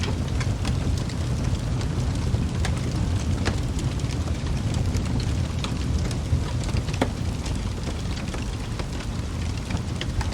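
Wood fire burning in a fireplace: a steady low rumble of flame with scattered, irregular sharp crackles and pops from the burning logs.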